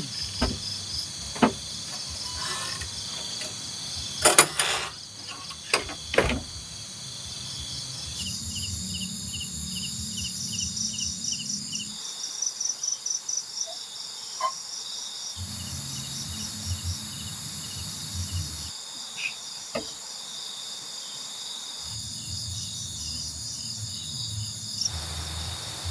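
Night chorus of crickets and other insects: a steady, high-pitched trilling with rapid pulsed chirps layered over it. A few sharp knocks sound in the first several seconds.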